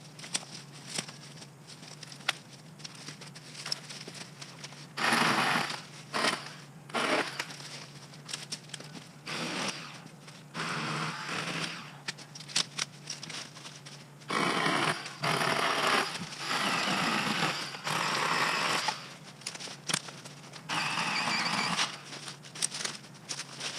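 Ryobi 40-volt battery-powered electric chainsaw run in short bursts of one to two seconds, about six times, as it cuts through scrub brush. Between the cuts there is crackling and snapping of brush and twigs, over a faint steady low hum.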